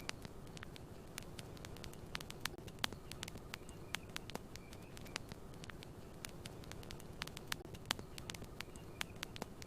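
Wood campfire crackling: irregular sharp pops and snaps over a low steady rumble of the burning fire.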